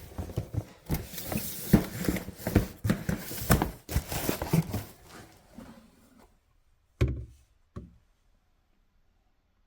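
Objects being handled, with irregular rattling, clicking and knocking, then two separate thumps about seven and eight seconds in, after which the sound stops.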